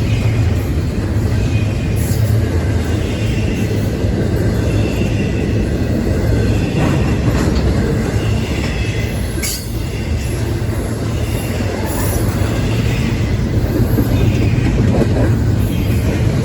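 A train rolling past at close range: a steady low rumble of the cars on the rails, with faint high-pitched wheel squeal and a few sharp clicks from the wheels.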